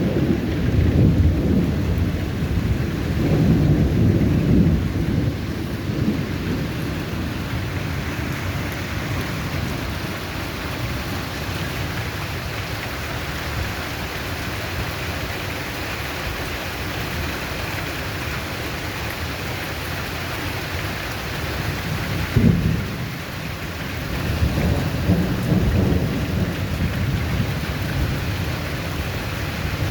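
Steady heavy rain with thunder: low rolling rumbles in the first few seconds and again near the end, and a sharper clap about two-thirds of the way through.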